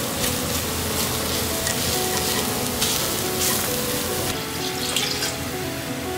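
A curry base with ground turmeric, coriander and cumin sizzling in an enamelled cast-iron Staub pot as a wooden spatula stirs and scrapes it. The sizzling drops away about four seconds in, leaving soft background music.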